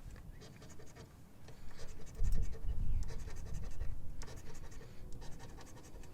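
Scratch-off coating being scraped off a $5 Texas Lottery Bucks & Trucks ticket in quick, repeated strokes. Louder about two seconds in, with dull knocks under the scraping.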